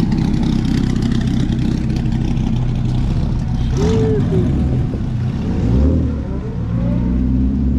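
Car engine idling with a steady low rumble; a deeper engine note comes in about six seconds in.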